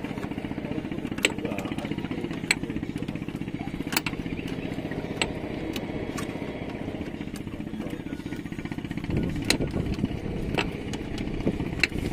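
Two-stroke outboard engine idling steadily, with sharp clicks every second or so. It runs rougher and louder near the end.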